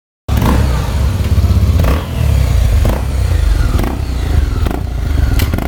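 Honda XRE 300's single-cylinder engine running loud, its exhaust rumbling with an even low pulsing; it cuts in about a quarter second in.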